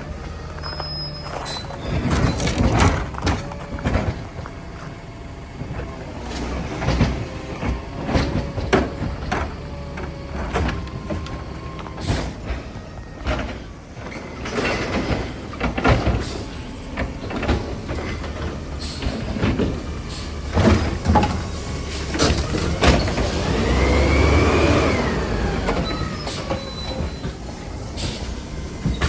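Garbage truck working: engine running under repeated knocks and clanks, with a whine that rises and falls about three-quarters of the way through.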